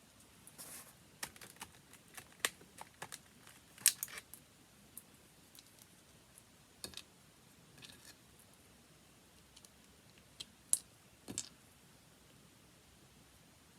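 Scattered light clicks and taps with a few brief soft rustles, from handling watercolour paints and paper. The sharpest taps come about four seconds in and again near eleven seconds.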